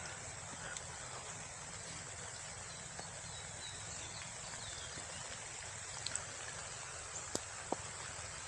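Light rain falling: a steady soft hiss, with a few faint sharp ticks about six and seven seconds in.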